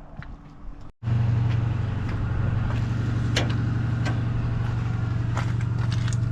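An engine idling steadily with an even low hum, coming in abruptly about a second in after a short cut-out. Before it, only a few faint knocks.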